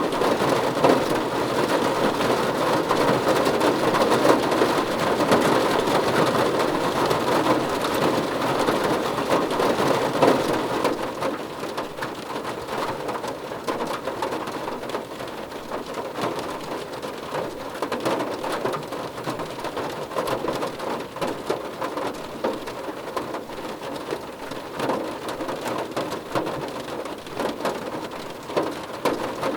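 Steady rain falling on a car roof: a dense patter of drops striking the roof. It is heavier for about the first ten seconds, then eases to a lighter fall.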